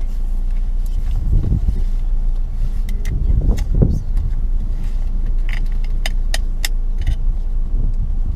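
Car in motion heard from inside the cabin: a steady low rumble of road and engine noise, swelling a little a couple of times, with several sharp light clicks in the middle and later part.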